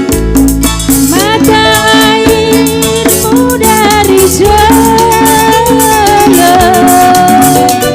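Song with a voice sliding into long held notes over strummed accompaniment with a shaker and a steady beat.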